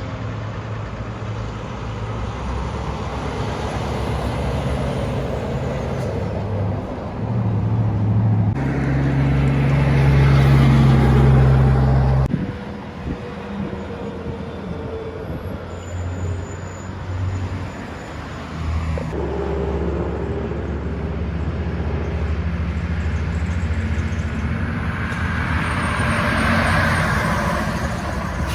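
Mack trucks' diesel engines running and driving by, a deep steady engine drone. The sound changes abruptly about a third of the way in, again at the midpoint and about two-thirds through, as one truck gives way to the next. The loudest stretch comes just before the midpoint.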